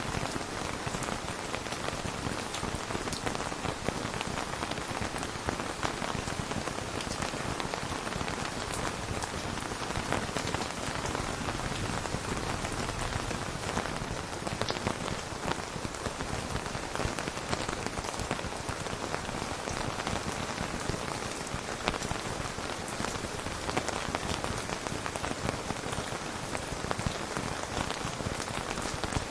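Steady rain: an even hiss with a dense patter of individual drops striking a surface, with no thunder.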